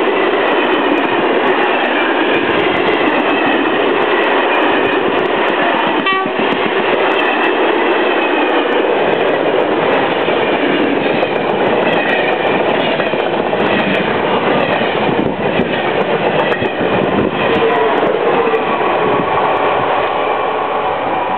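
Two passenger trains passing each other close by: Corail night-train coaches rolling past on one track while a TGV Duplex high-speed train runs by on the other. A loud, continuous rush of steel wheels on rail, with clatter over the rail joints.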